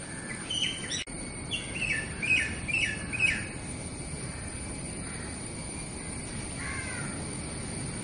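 A bird calling in a quick run of short, falling chirps through the first few seconds, then one more call later on, over a steady outdoor rumble.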